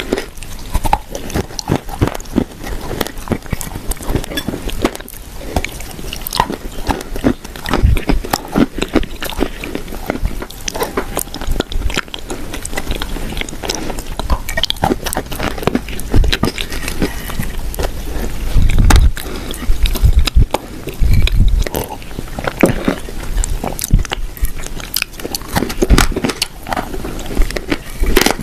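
Crunching and chewing of clay shortbread cookies: a dense, irregular run of crisp bites and crunches, with a few heavier low thuds of chewing past the middle.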